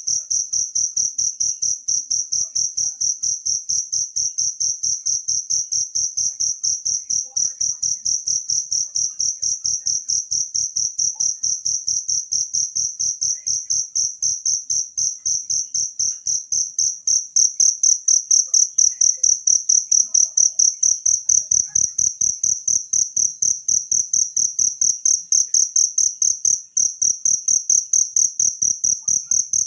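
A cricket chirping in a continuous, high, evenly pulsed trill with no breaks. It grows a little louder about seventeen seconds in.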